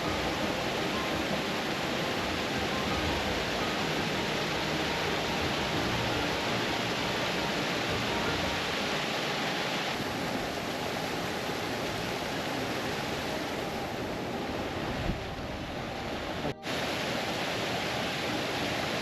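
Steady rushing of a moorland stream tumbling over small waterfalls, with one very brief dropout near the end.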